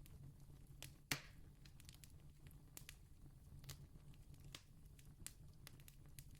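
Distant campfire crackling faintly: scattered small pops of burning wood, one sharper pop about a second in, over a steady low rumble.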